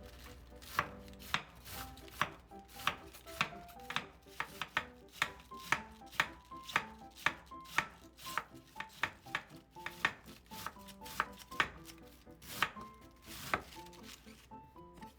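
A knife chopping on a cutting board, about two strokes a second, with soft background music underneath.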